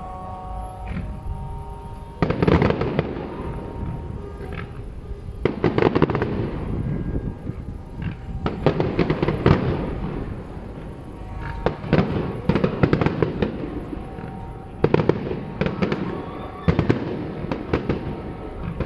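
Fireworks display: volleys of shell bursts and crackling come in clusters every few seconds. Music plays faintly underneath at the start.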